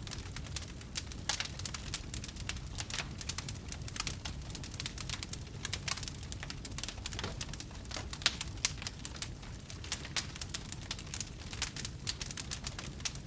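Wood campfire burning, with dense, irregular crackles and pops over a low rumble of flame.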